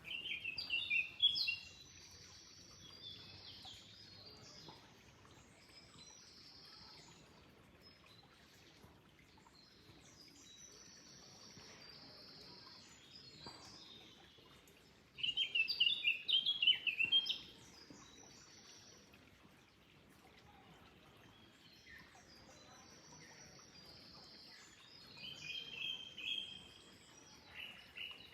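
Songbirds singing repeated phrases of chirps and trills, loudest just after the start, around the middle and near the end, over a faint steady sound of flowing water.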